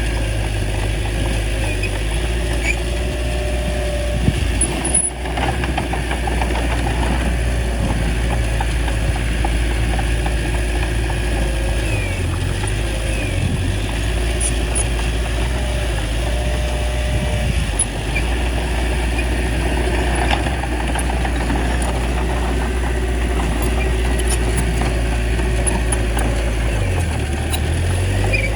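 Bulldozer's diesel engine running steadily, with a couple of sharp knocks. The engine note dips briefly twice.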